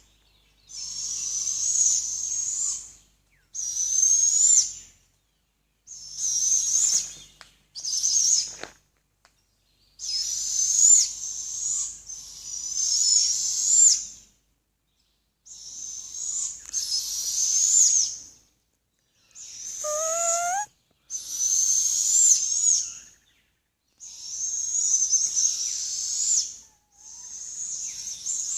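An owl giving a long series of high, hissing screech calls, about a dozen, each a second or two long with short pauses between. A brief rising whistle is heard about twenty seconds in.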